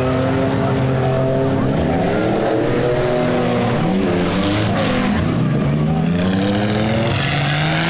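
Several minivan and SUV engines in a demolition derby revving hard at once, their pitches rising and falling and overlapping as the cars spin their wheels in the dirt.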